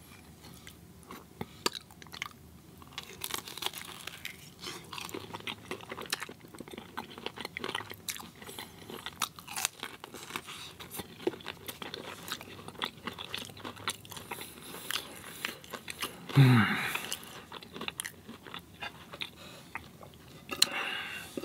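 Close-miked chewing of crispy fried food, a dense run of small crunches and wet chews. About three-quarters of the way through there is a short vocal sound that falls in pitch.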